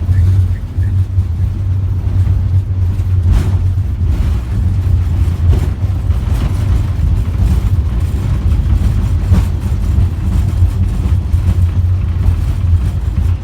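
Steady low rumble of an Airbus airliner rolling down the runway after touchdown, heard inside the cockpit, with a few light knocks from the gear over the runway surface.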